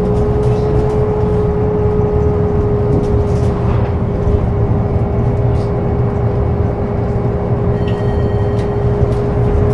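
Scania K270UB city bus running, its 9-litre DC9 diesel rumbling low under a steady high whine that holds one pitch throughout.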